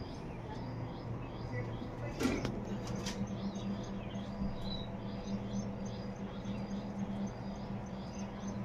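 A small bird chirping over and over, about twice a second, over a steady low hum. There are two sharp knocks a couple of seconds in.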